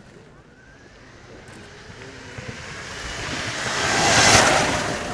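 Agni X01 electric motorcycle passing by: a faint motor whine and tyre and wind noise swell, peak just over four seconds in, then fade away.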